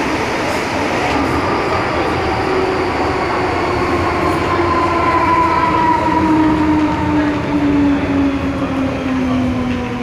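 MTR M-Train metro car running in the tunnel, with a rumbling ride noise and a motor whine that falls steadily in pitch through the latter part, as the train slows.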